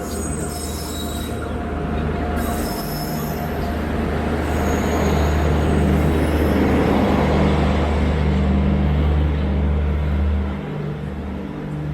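A passenger train rolling along the platform, with a steady low hum and a rumble that builds, peaks midway and falls off near the end. High wheel squeals are heard in the first few seconds.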